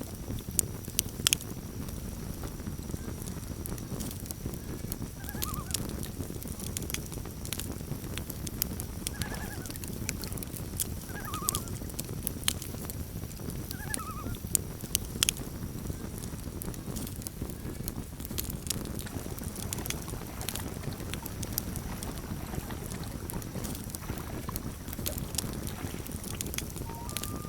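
Campfire crackling, with frequent sharp pops over a steady low rumble. A few faint, short pitched calls sound in the middle stretch.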